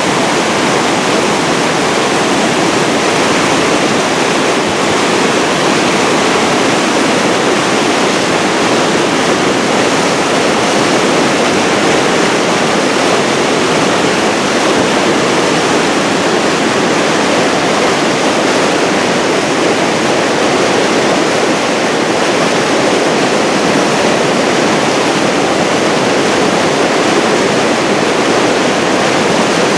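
Floodwater pouring over a mill dam and churning below it: a loud, steady rush of water.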